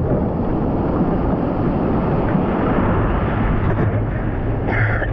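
Steady, loud rushing of wind buffeting the microphone, mixed with the wash of ocean surf.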